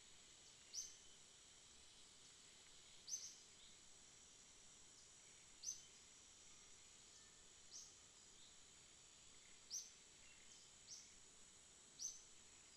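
Faint jungle ambience. A steady high insect drone runs underneath a short, high chirp that repeats about every two seconds, seven times.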